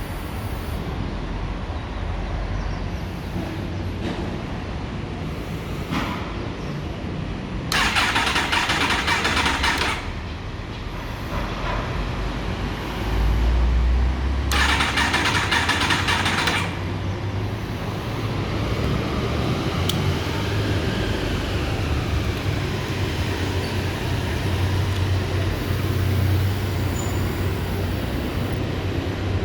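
2015 Yamaha YZF-R1 turning over on its starter in two attempts of about two seconds each, without the engine catching. The bike cranks but won't start, despite new spark plugs and a new lithium battery. A steady low hum runs underneath.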